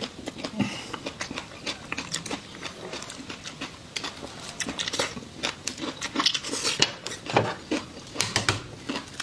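Eating sounds: a close, irregular run of clicks and clinks of utensils against dishes, mixed with biting and chewing.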